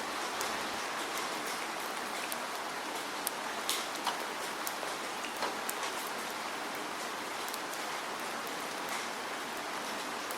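Steady rain falling, an even hiss with scattered individual drops ticking sharply on a surface at irregular moments.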